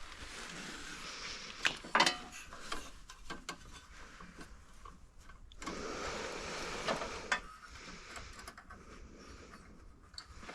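Hand tools working on metal: clinking and scraping, with a pair of sharp knocks about two seconds in and another pair about seven seconds in.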